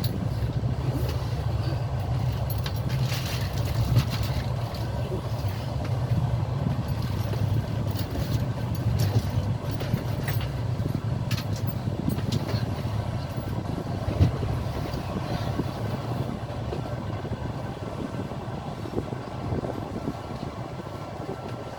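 Passenger train running along the track: a steady low rumble of the wheels on the rails, with occasional sharp clicks.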